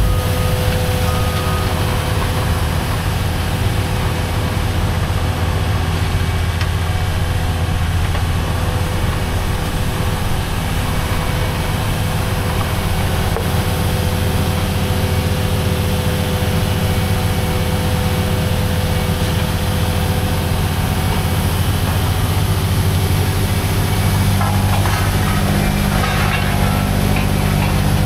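Heavy diesel engine of a triaxle dump truck (Cummins X15) idling steadily with a deep, even low hum.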